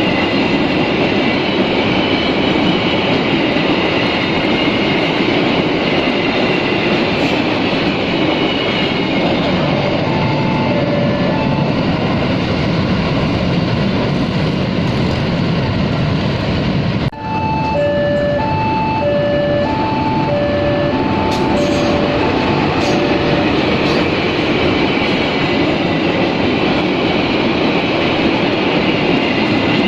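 Freight train of fuel tank wagons rolling past, a steady rumble and rattle of wheels on the rails. About ten seconds in, and again from about eighteen to twenty-three seconds, an electronic beeping alternates between a higher and a lower tone over the train noise.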